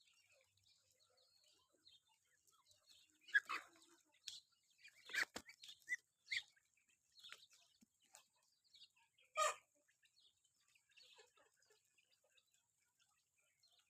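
Village chickens clucking: a scatter of short calls, the loudest about three seconds in and again about nine seconds in.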